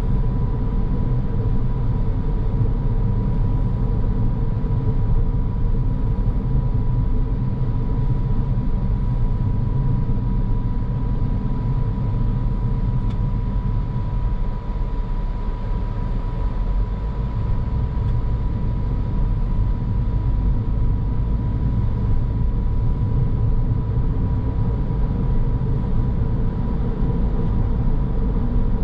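A car driving along at steady speed: continuous road and engine noise, heavy in the low end, with a thin steady whine running through it.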